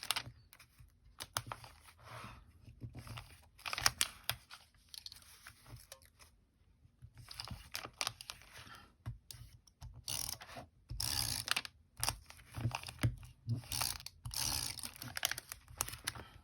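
Sheet of craft paper being handled and worked over a notebook: irregular rustling and crinkling with short clicks and taps, quieter for a moment in the middle and busier in the second half.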